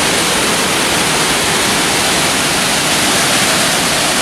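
Waterfalls: a loud, steady rush of falling water, an even hiss with no breaks.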